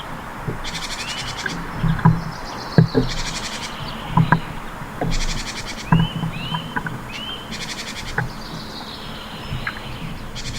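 Small songbirds at a feeder calling and singing: repeated half-second buzzy, rattling trills high up, mixed with short rising chirps.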